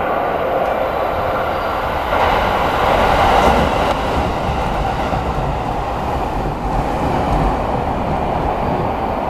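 Electric commuter train passing through the station alongside the platform: a steady rumble and rush of wheels on rail, loudest about two to four seconds in, then slowly easing as it draws away.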